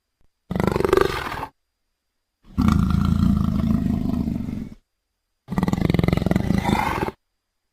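Three separate big-cat roars and snarls, each cut off cleanly with silence between; the middle one is the longest, at about two seconds. They are creature sound effects assembled from leopard, tiger and lion recordings.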